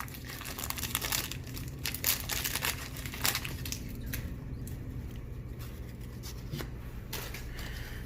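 Crinkling and rustling of 1991 Topps baseball card packs and cards being handled and leafed through, with quick flicks of card stock, busiest in the first three seconds and sparser after, over a steady low hum.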